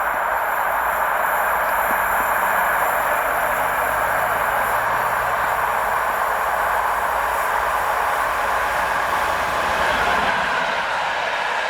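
A train passing on the main line: a steady, loud rolling noise of wheels on the rails, changing slightly near the end.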